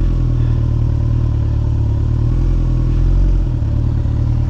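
A Kawasaki ZX14R's inline-four engine running steadily at low revs, with a slight dip about three and a half seconds in.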